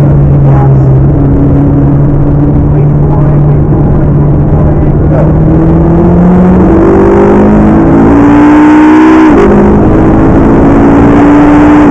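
McLaren MP4-12C's twin-turbo 3.8-litre V8 running steadily at first, then accelerating hard with its pitch rising. The pitch drops sharply at an upshift a little past nine seconds in, then climbs again.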